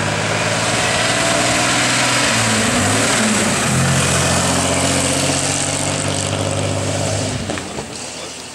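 Engine of a prewar open racing car pulling away past the listener. The engine note dips briefly a few seconds in and picks up again, then fades as the car moves off.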